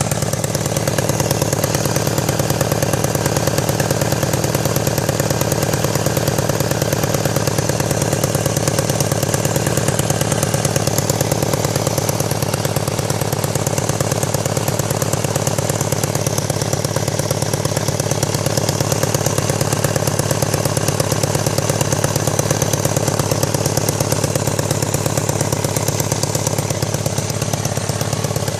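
1999 BMW K1200RS inline-four engine idling steadily with a rapid pulsing exhaust leak and a little rattle. The number four exhaust header's two retaining bolts are missing, so exhaust escapes at the cylinder head port and the loose tube rattles against the port.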